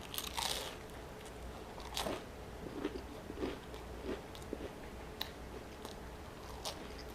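A person biting into crunchy food, with a crisp crunch at the start and another about two seconds in, then chewing with soft, wet mouth sounds about every half second.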